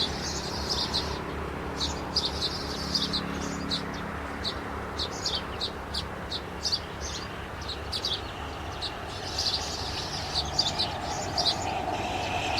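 Small bird chirping: short, high chirps repeated in quick clusters, over a steady low background noise.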